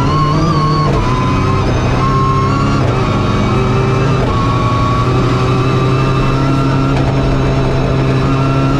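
Rally car engine heard from inside the cabin, running hard under load on a stage. Its pitch steps up and down several times as the driver changes gear.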